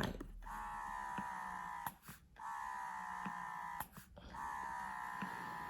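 Bellababy wearable breast pump's motor running through its suction cycles, about one every two seconds: each stroke is a whir that drops slightly in pitch, then cuts out briefly for the release. Three strokes are heard.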